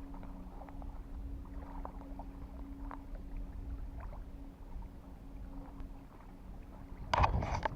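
A steady low motor drone under a low rumble, with a few faint ticks. A short loud burst of noise comes about seven seconds in.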